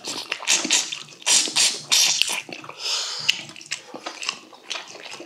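Close-miked wet chewing, smacking and sucking of people eating braised yellow croaker, a quick run of short moist smacks and clicks.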